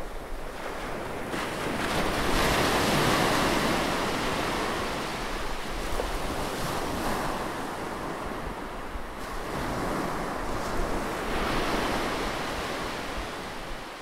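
Atlantic Ocean waves washing in surges, with no clear tones. One swell builds a couple of seconds in and another comes in the second half.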